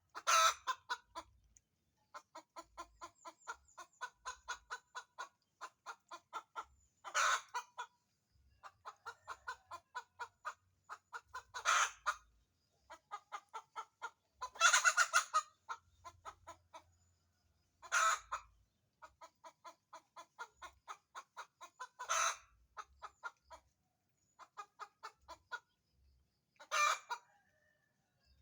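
Hen cackling: runs of rapid clucks, several a second, each run broken by a loud squawk, about seven times over. This is the buk-buk-bagawk cackle of a hen about to lay.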